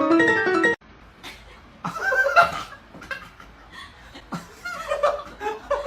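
Piano music that cuts off abruptly under a second in, followed by a person laughing in short, irregular bursts, loudest about two seconds in.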